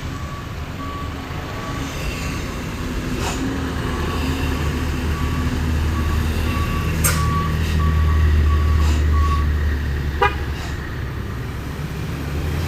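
Heavy truck engine labouring on a steep climb, its low rumble growing louder to about eight seconds in and then easing off, with a truck's warning beeper sounding short repeated beeps, about two a second.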